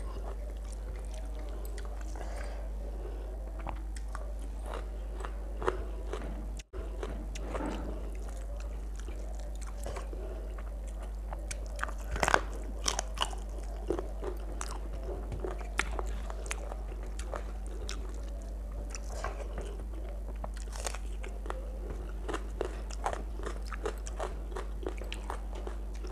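Close-miked chewing and crunching of rice with chicken feet curry, many small sharp crunches and wet mouth sounds, over a steady low electrical hum. The audio drops out for an instant about seven seconds in.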